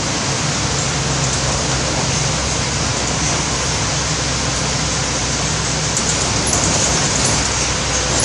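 Heavy rain falling steadily, a dense even hiss, over a low steady hum.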